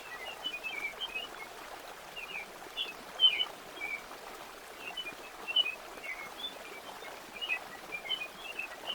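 Small birds chirping and twittering in short scattered calls over the steady rush of a flowing stream.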